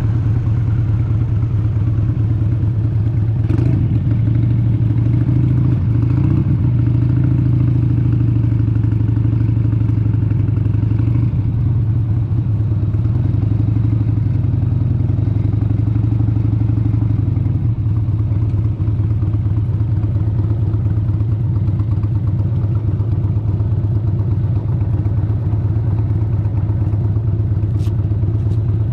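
1996 Harley-Davidson XLH883 Sportster's air-cooled 883 cc Evolution V-twin running steadily under way on the road, its deep tone easing off a little a bit over halfway through.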